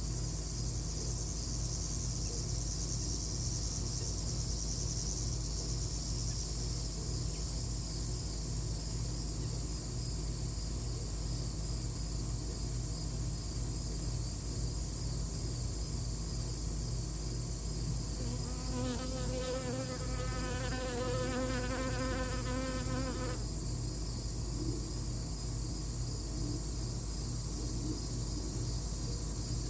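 Steady chirring of insects. A louder buzz, like an insect flying close by, comes about two-thirds of the way through and lasts about five seconds.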